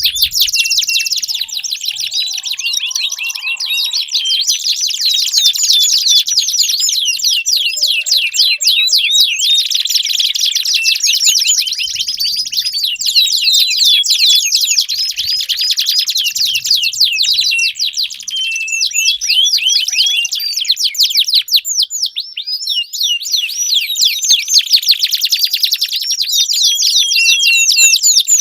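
Domestic canary singing a long, unbroken song of fast high trills and rolls, each phrase a run of the same note repeated many times a second before switching to another.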